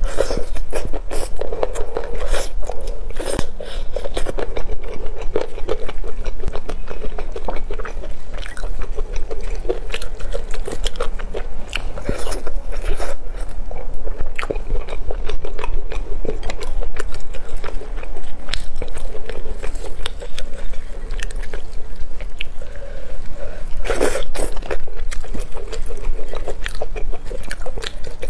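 Close-miked chewing and mouth sounds of someone eating sauce-glazed chicken: dense, irregular wet smacks, bites and clicks, with a few louder ones near the end.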